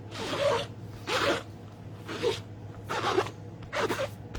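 Five short scuffing strokes, about one a second: an ink pad being rubbed across a large rubber background stamp to ink it.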